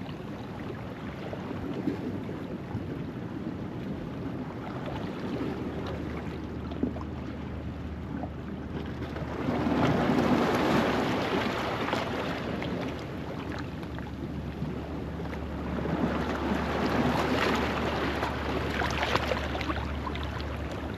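Ocean waves washing over a rocky shoreline at low tide, with two louder surges, about ten seconds in and again near seventeen seconds.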